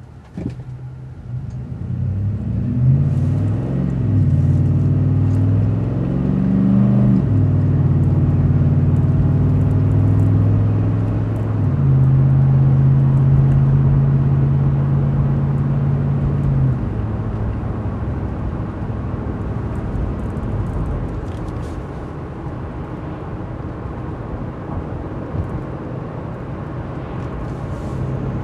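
2011 Ford F-150's 5.0 V8 through its aftermarket Magnaflow muffler and dual tips, heard inside the cab as the truck accelerates. The engine note rises and drops back at each upshift in the first several seconds, holds steady and loudest for a few seconds, then eases to a quieter, even cruise hum with tyre noise.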